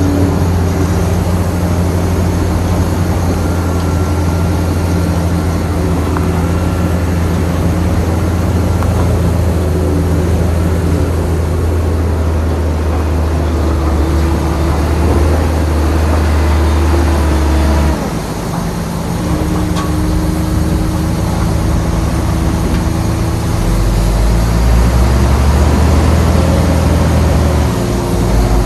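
Shantui bulldozer's diesel engine running with a loud, steady low drone. It eases off about two thirds of the way through and builds up again a few seconds later.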